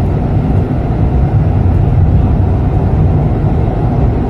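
Urban rail train running at speed through a tunnel, heard from inside the car: a loud, steady low rumble of wheels and running gear on the rails.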